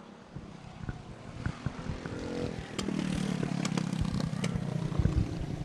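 Mini bike engines running at the track, getting louder over the first few seconds and then holding steady.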